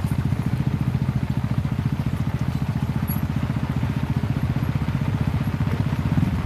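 Motorcycle engine running close by with a steady, rapid low pulsing, briefly revving up just before the end.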